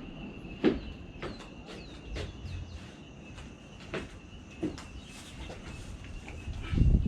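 Birds chirping in many short, quick, falling notes over a steady high-pitched tone, with a few sharp knocks, the loudest about a second in and at the end.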